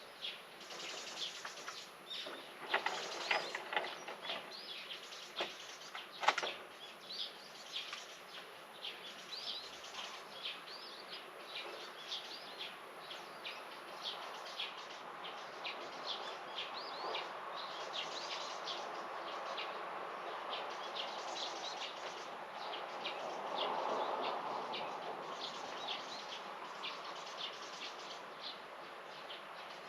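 Small birds chirping outdoors, many short quick calls overlapping one another. A couple of sharp clicks come a few seconds in, and a soft rushing noise swells up past the middle and fades again.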